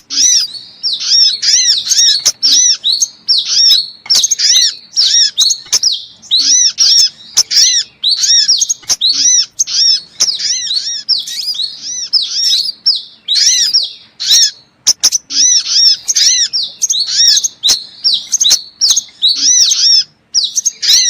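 Sunbird lure call: high, arched chirps repeated rapidly several times a second in bursts, with sharp clicks between some of them.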